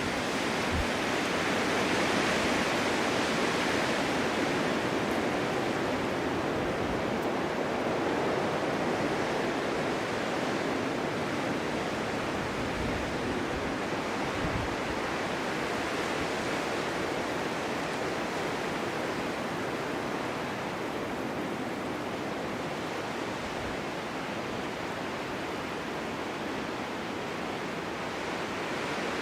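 Steady winter wind blowing, a continuous rushing noise that swells a little early on and eases gradually later.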